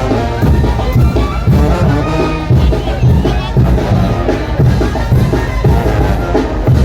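Brass band playing a son de chinelo: brass melody over a steady, regular drum beat.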